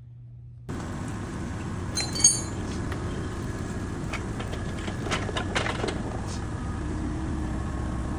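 Metal clinking: one sharp ringing clink about two seconds in, then several lighter clicks, over a steady low rumble of background noise.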